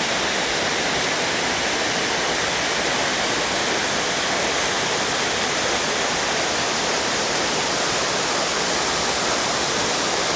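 Waterfall pouring into its plunge pool, heard close up as a steady, full rush of water.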